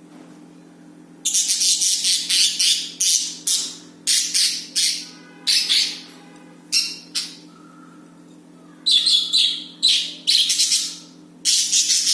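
Budgerigars chattering and squawking in a rapid string of harsh, raspy calls. The calls start about a second in, with short pauses between bursts.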